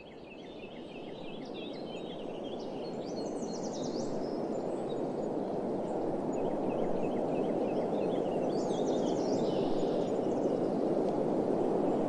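Outdoor ambience: small birds chirping in short calls over a steady rushing noise that fades in during the first few seconds.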